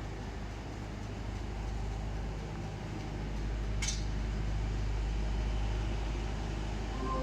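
Steady low rumble and hum of a train at a railway station, getting a little louder partway through, with one short sharp hiss about four seconds in.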